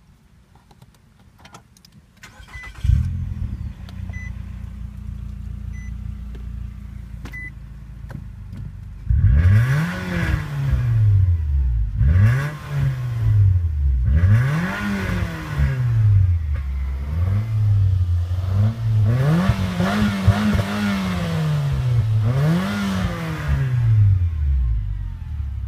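2008 Nissan Altima 2.5's four-cylinder engine breathing through a Magnaflow exhaust: a few short beeps, then the engine starts about three seconds in and idles. From about nine seconds in it is revved about six times, each rev rising and falling in pitch.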